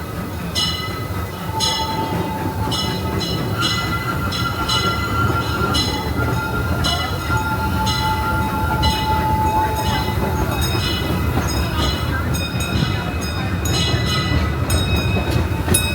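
Disneyland Railroad passenger train rolling along the track: a steady low rumble with repeated sharp clicks and faint whining tones from the wheels.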